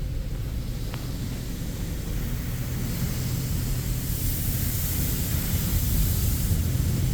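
Automatic car wash machinery running around the car: a steady low rumble with a high spraying hiss that grows louder about three seconds in and peaks near the end.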